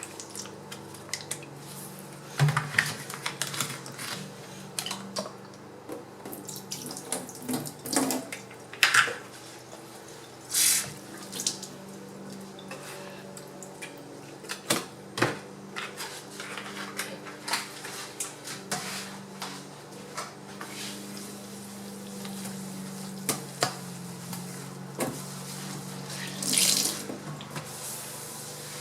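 Hair being wetted and worked with product: two short hisses of a spray bottle, about ten seconds in and again near the end, among small clicks and handling sounds, over a steady low hum.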